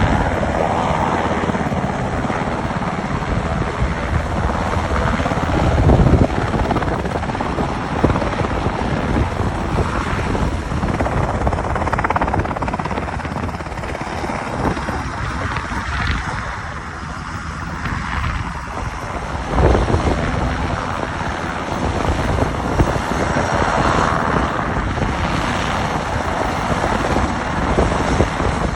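Air Force search-and-rescue helicopter in flight, its rotor and engines running steadily. The level dips briefly about halfway through, then swells again.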